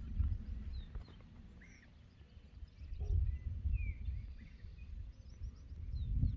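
Wild birds chirping in short, scattered calls over a low, gusting rumble of wind on the microphone.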